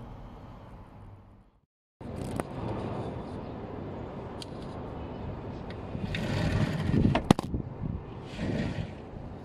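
Sandstorm wind buffeting the microphone, gusting louder about six to seven seconds in, with a sharp knock near seven seconds. The sound cuts out for a moment near two seconds.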